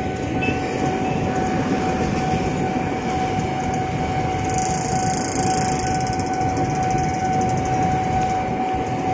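KRL Commuter Line electric multiple-unit train passing over a level crossing: a steady rumble of wheels on rails, with a steady high tone held throughout and a brief high hiss about halfway through.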